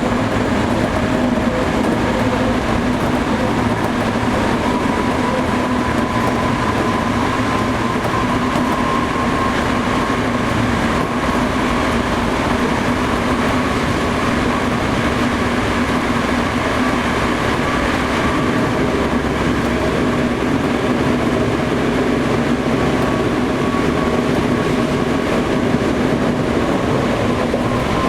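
Running sound of a Toei 5300-series electric train heard inside the car at speed: a steady rumble of wheels on rail with a thin, faint whine that rises slightly in the first half, then holds level.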